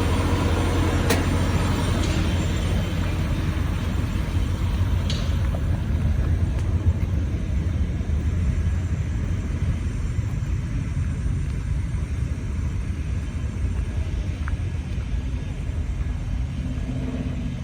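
Low, steady engine rumble that slowly fades, with a few faint clicks.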